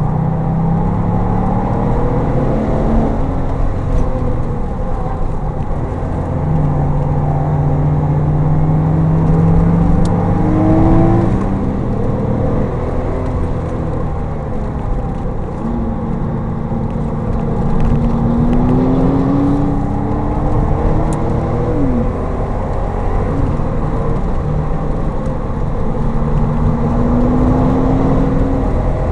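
Porsche 911 Turbo's twin-turbo flat-six heard from inside the car at speed on track, its revs climbing in several long, steady pulls with a quick drop back between them, over a dense rumble of road noise.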